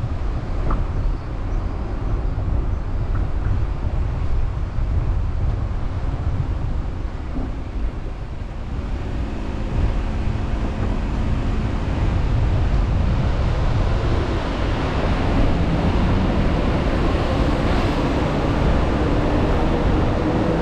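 Car driving on a road: steady engine and road noise with a heavy low rumble. After about nine seconds an engine note comes up and climbs slowly in pitch as the car speeds up.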